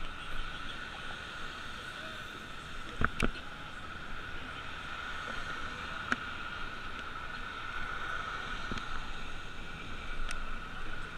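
Steady riding noise from a bicycle in motion, with a constant hum-like hiss and a few sharp clicks about three, six and ten seconds in.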